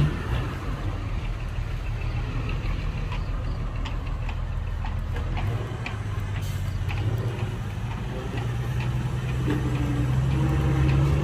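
Heavy diesel engine of earthmoving machinery running steadily, its pitch climbing gently and getting a little louder over the last few seconds.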